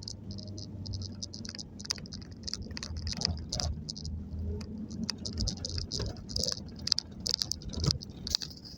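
Irregular rattling and clicking over a low steady hum, typical of a Nissan Serena C23 van on the move.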